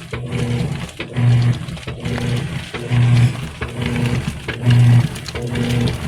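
GE Spacemaker top-load washer agitating during the wash stage: the drive motor hums in strokes that swell and fall back about once a second as the agitator swings back and forth.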